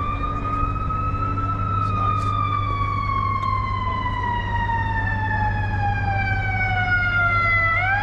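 Emergency vehicle siren wailing, its pitch gliding slowly down over several seconds and sweeping back up near the end. A steady low hum runs underneath.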